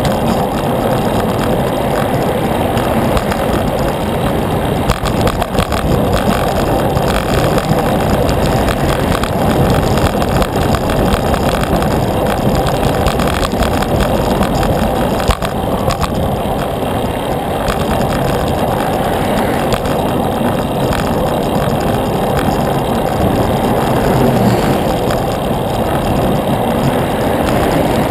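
Steady rushing wind and road noise on the microphone of a moving bicycle, with no break.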